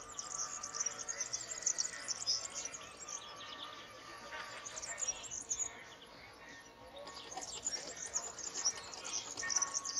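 Birds chirping and twittering, many short high calls at once. The calls thin out around the middle and pick up again near the end.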